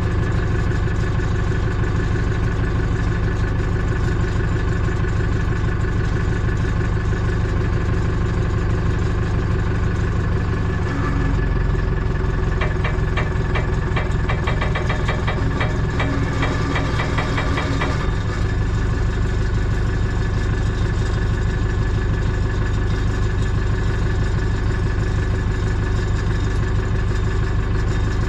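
An engine idling steadily. From about 11 to 18 seconds in, its lowest note shifts, and a fast, even ticking runs alongside it for several seconds before the engine settles back.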